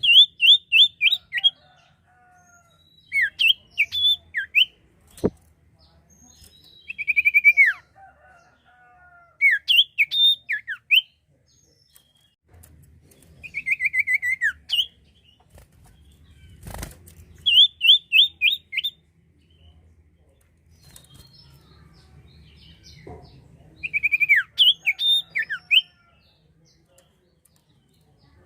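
A sirtu songbird singing in short, loud bursts of quick whistled notes that slide down in pitch, repeated every second or two with brief pauses between. A few sharp clicks and a faint low hum sound now and then.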